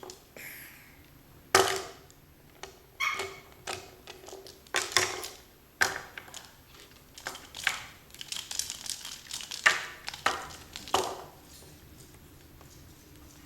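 A parrot chewing the cardboard bagels of a foot toy: irregular sharp crunches and snaps of cardboard, about a dozen, stopping near the end.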